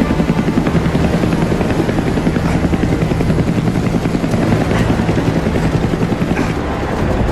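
Helicopter rotor blades chopping fast and steady, loud and close, in a film's action sound mix.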